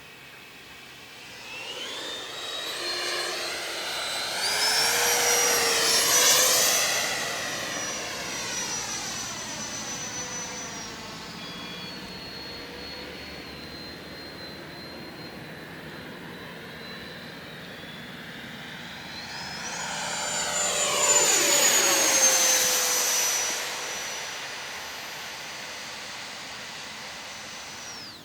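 Electric ducted fan of an 8S Freewing 90 mm EDF J-10 RC jet whining in flight, passing by twice: the sound swells to a loud peak about six seconds in and again a little after twenty seconds, where the pitch drops sharply as the jet goes by. It cuts off suddenly at the end.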